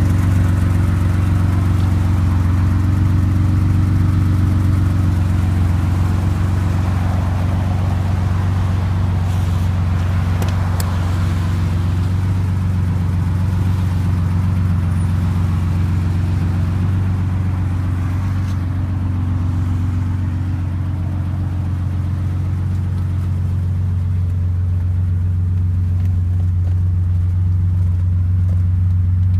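Porsche 911's air-cooled 2.7-litre fuel-injected flat-six running steadily at an even speed.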